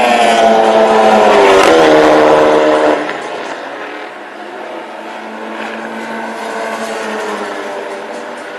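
Racing vehicle engine passing close by with a falling pitch, loud for about three seconds before dropping away abruptly; a fainter engine keeps running afterwards.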